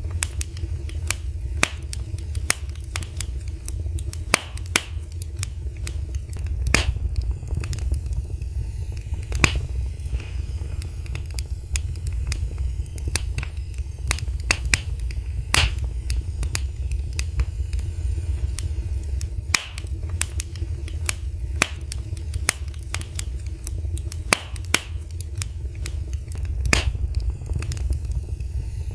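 Wood fire burning in a fireplace: irregular sharp crackles and pops, a few much louder than the rest, over a steady low rumble of the flames.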